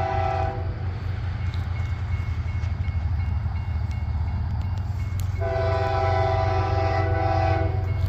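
Five-chime Nathan K5H air horn on a CSX ES44AC diesel locomotive, sounded in two blasts: one ending about half a second in, another of about two seconds starting near 5.5 s. A steady low rumble from the approaching train runs under them.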